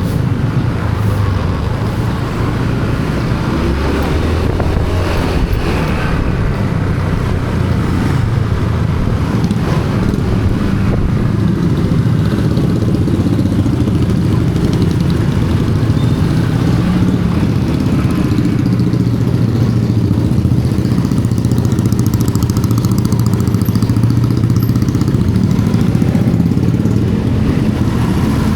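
Motorcycle riding along a road: a steady low rumble of engine and road noise that holds at one level throughout.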